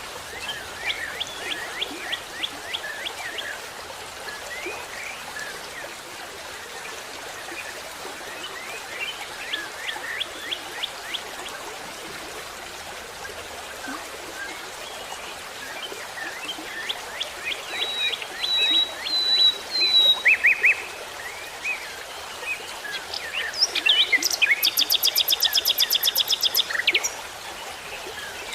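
Small birds calling in several bouts of rapid, short chirps, with a louder, fast rattling series of sharp notes near the end, over a steady background rush.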